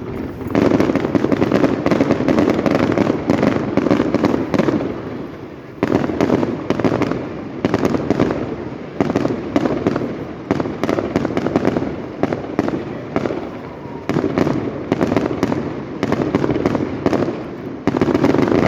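Fireworks display: a dense, continuous barrage of bangs and crackling, with a fresh loud volley every few seconds.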